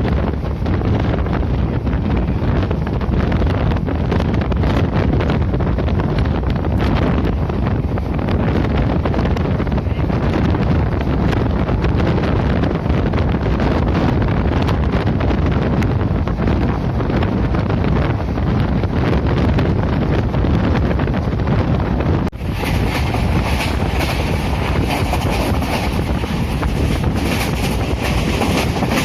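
Moving passenger train running along the track, a steady low rumble under wind rushing over the microphone. About 22 seconds in the noise dips for a moment, then returns with more hiss.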